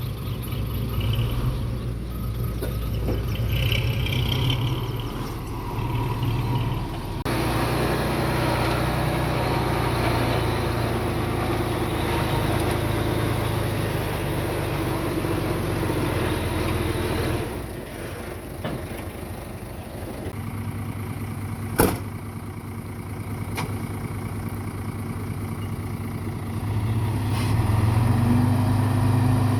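Diesel engine of heavy earthmoving equipment running under load, with a single sharp metallic clank about two-thirds of the way through. Near the end the engine revs up and grows louder.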